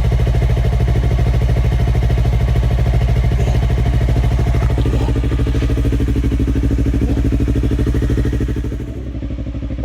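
Yamaha R3's parallel-twin engine idling steadily through an aftermarket exhaust, with an even, rapid pulse; it becomes a little quieter near the end.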